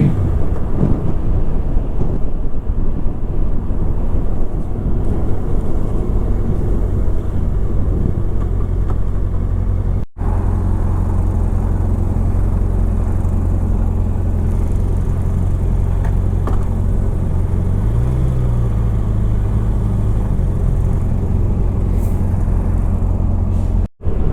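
Motorcycle being ridden on the road: a steady low engine and road rumble, with a slight rise and fall in pitch about two thirds of the way through. The sound cuts out briefly twice, once about ten seconds in and once near the end.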